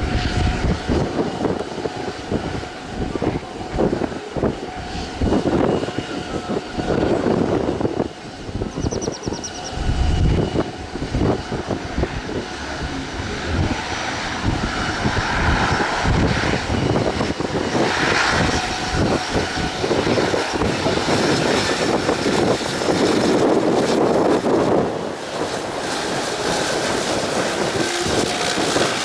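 Aircraft engines running loud and steady, with gusts of wind buffeting the microphone.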